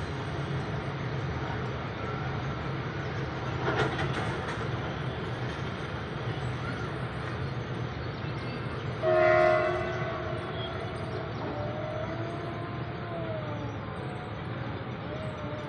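Train running with a steady rumble, a sharp clank about four seconds in, and a short loud horn blast about nine seconds in, followed by faint wavering tones.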